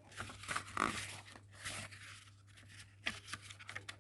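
Pages of a small hardback Ladybird book being turned and handled: a few soft paper rustles and clicks.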